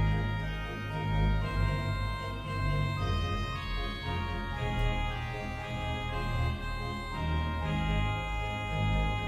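Organ music: sustained chords held without fading, moving to a new chord every second or so over a steady low bass.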